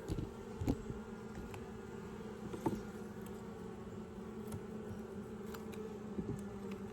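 Honeybee colony buzzing in a steady hum from the opened hive, agitated and defensive. A few short knocks sound in the first three seconds.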